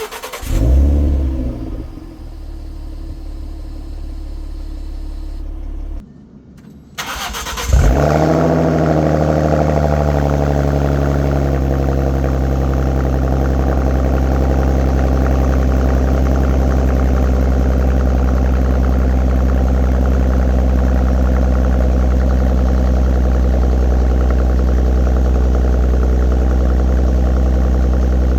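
Ford Mustang 3.7 L V6 with a Roush axle-back exhaust starting up, flaring and settling toward idle. About six seconds in it briefly goes quiet. It then starts again with a second flare and settles into a steady idle.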